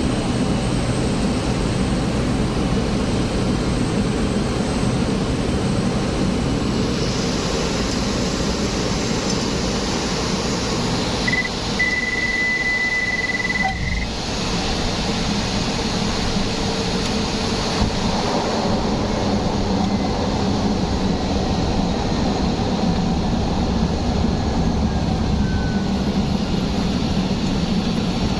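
Steady rumbling cabin noise of a moving vehicle, with a short high beep lasting a couple of seconds about halfway through.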